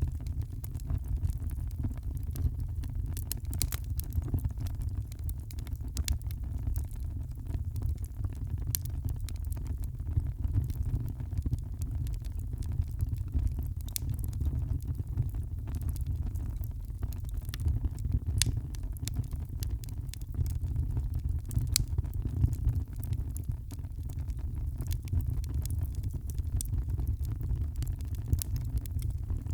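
Wood fire crackling in a fireplace: a steady low rumble with scattered sharp pops and crackles at irregular moments.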